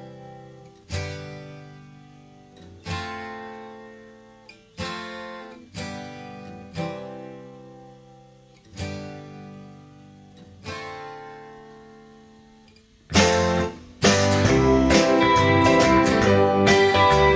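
Acoustic guitar music: single strummed chords each left to ring and fade, about one every one to two seconds, then from near the end a fuller, louder passage of continuous playing.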